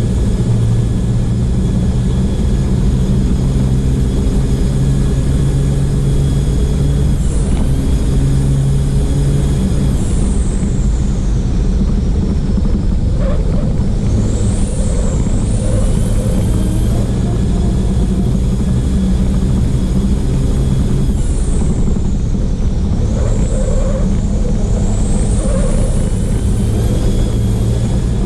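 Copa Truck race truck's diesel engine running hard under load, heard from the onboard camera, a steady deep drone with a high whistle that sweeps down and back up several times, around a third of the way in and again in the second half.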